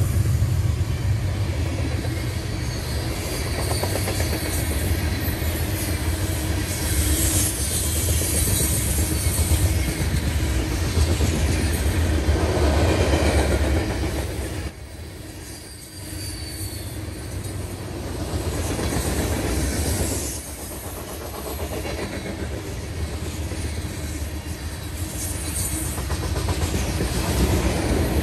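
Freight train of covered hopper cars rolling past: a steady low rumble and rattle of wheels on the rails, dipping briefly about halfway through.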